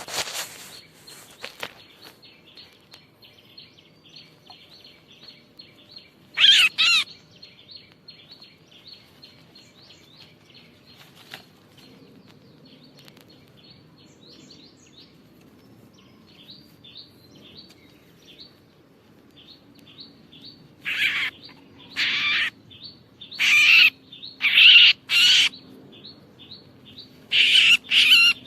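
Red-whiskered bulbul calls: loud, short bouts of warbling notes, one about six seconds in and then a run of them close together in the last seven seconds. Under them runs a faint, steady string of quick high chirps.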